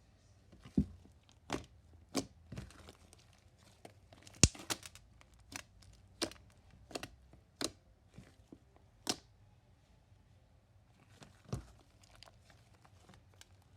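Slime being worked and folded by hand, giving irregular sharp pops and clicks as trapped air bursts, the loudest about four and a half seconds in, with a quieter spell a little past the middle.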